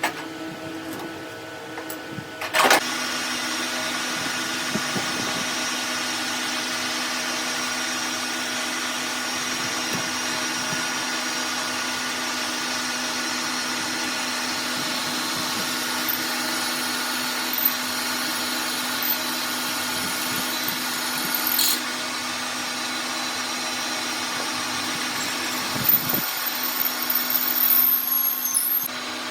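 An electric power tool in a metal workshop starts with a sharp jolt and runs at a steady hum with noise above it, with a few sharp clicks along the way, and stops near the end.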